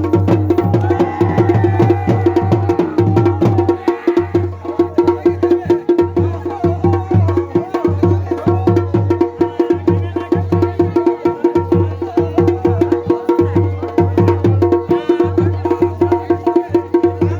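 Garhwali dhol and damau drums played together in a fast, steady rhythm, with rapid sharp strokes over a repeating deep drum pulse.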